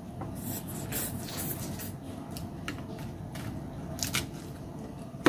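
A person chewing a mouthful of raw vegetable salad, with soft wet crunching, and a few short clicks and scrapes of a fork in the salad plate, the loudest about four seconds in.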